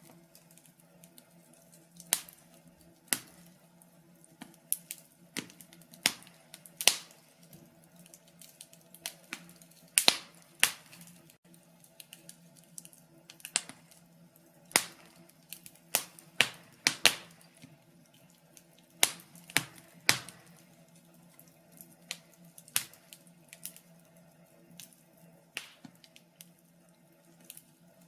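Wood fire in a fireplace crackling, with sharp irregular pops, one every second or so, over a faint steady hum.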